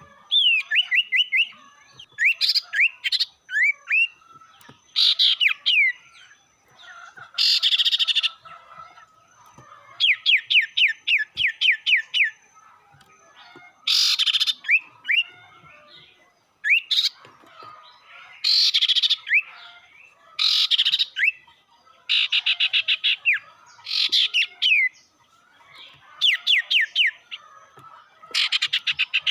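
Sirtu (sirpu) songbird calling in fierce bouts of rapid, sharp chirps and trills, each bout a second or two long with short pauses between. It is a lure song used to provoke rival birds into answering.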